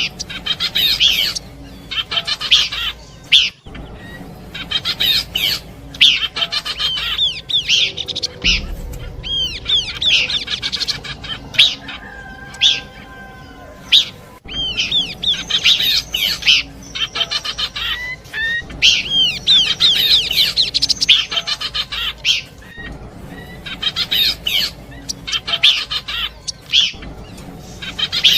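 Pelanduk semak, a babbler, singing: bursts of quick, high, chattering notes, repeated every second or two, from a recording used to lure birds.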